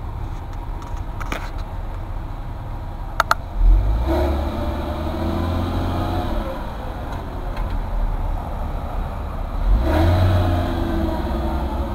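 Porsche Boxster's flat-six idling, blipped hard about four seconds in and sinking back down over the next few seconds, then revved again near the end. Two sharp clicks come just before the first rev.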